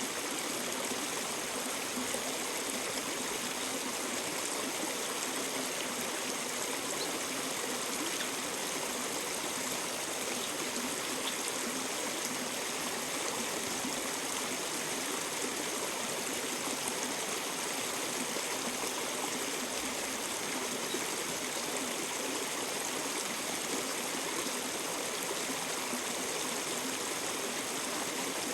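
River water running steadily, an even rushing noise with no breaks.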